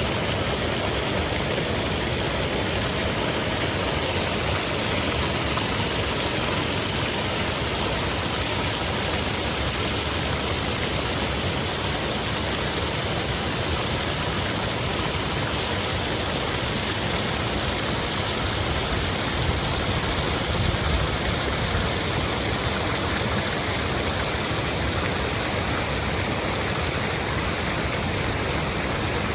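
Shallow stream running steadily over rocks and small dams, a constant rush of water.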